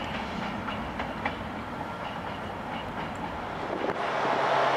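Class 67-hauled passenger train rolling over the rails, with faint wheel clicks over the track. It gets louder about four seconds in.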